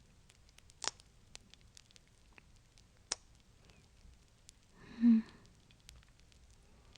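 Fireplace crackling: scattered sharp pops and faint ticks from the burning fire. About five seconds in, a brief, louder, pitched voice sound such as a soft hum.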